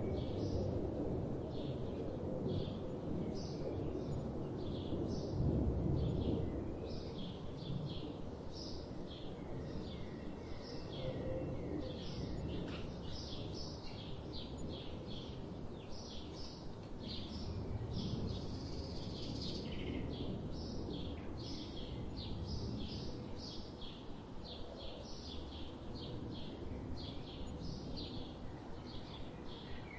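Songbirds chirping: many short, high calls in quick succession with no pause, over a steady low background rumble that swells a little near the start and again about five seconds in.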